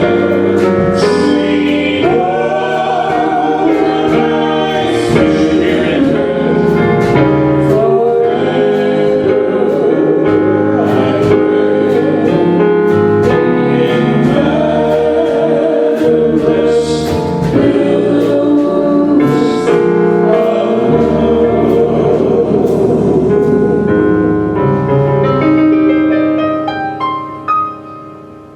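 Gospel music with a choir singing, fading out near the end.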